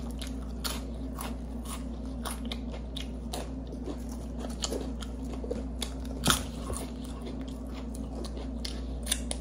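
Close-up eating sounds: repeated crunching and chewing of chips and sub sandwiches, with a sharper crunch about six seconds in, over a steady low hum.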